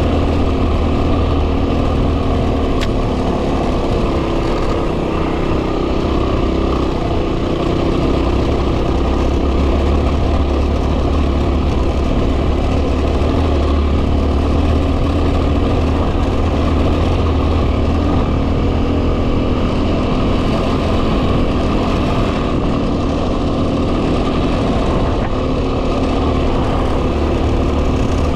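A 2010 Yamaha WR250R's 250 cc single-cylinder four-stroke engine running at a steady cruising speed, with heavy wind buffeting on the microphone rumbling underneath.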